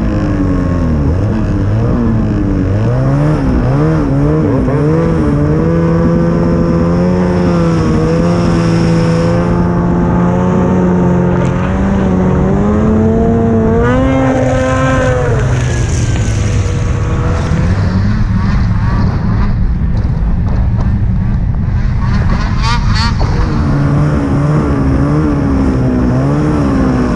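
Snowmobile engine running under load, its pitch rising and falling with the throttle. The pitch drops off about halfway through and comes back near the end.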